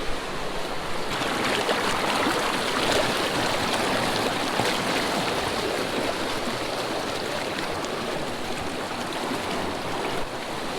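Small creek's water running, a steady rush that grows a little louder about a second in.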